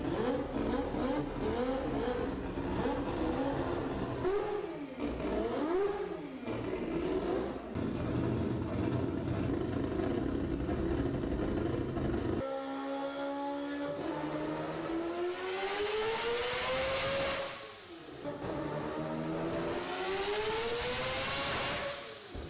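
1/10 RC car's motor and drivetrain whining as it is run on a 3D-printed rolling-road dyno, the pitch rising and falling with the throttle. In the second half come two long rising whines, the first cut off sharply before the second climbs again.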